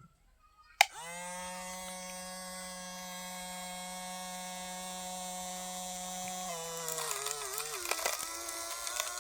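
Small electric motor of a miniature water pump switched on with a click, spinning up at once and whining steadily. After about six seconds its pitch drops and wavers unevenly, with a few crackles.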